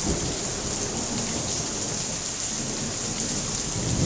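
Heavy rain pouring steadily, with a low rumble of thunder that builds toward the end.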